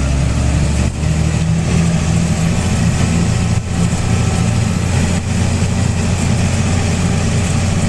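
Tractor engine running steadily and loudly, heard from on board as it drives across the field.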